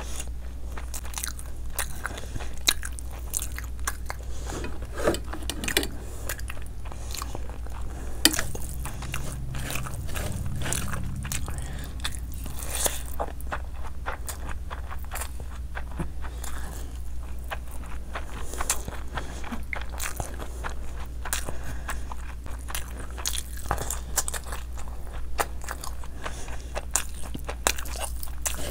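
Close-miked chewing of rice and curry eaten by hand: wet mouth sounds with many quick, irregular clicks and smacks, over a steady low hum.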